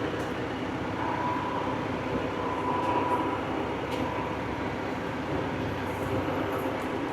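Tractor engine running steadily, with a faint whine for a couple of seconds and one brief click a few seconds in.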